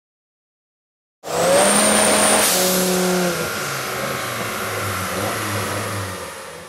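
Twin-turbo Dodge Viper V10 engine running hard, cutting in suddenly about a second in. Its pitch drops in steps and it fades away near the end, with a thin high whine over it at first.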